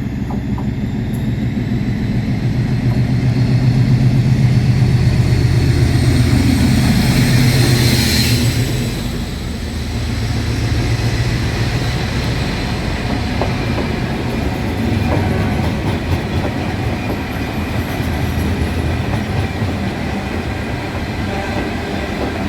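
A train passing through the station with a heavy, steady rumble, loudest about four to eight seconds in. It eases off after that but keeps running at a lower level.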